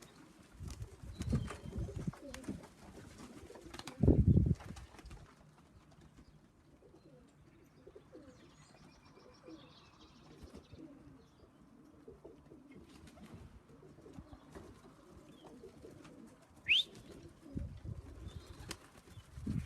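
Loft pigeons cooing, with louder swells about four seconds in and near the end. A single short high rising call near the end.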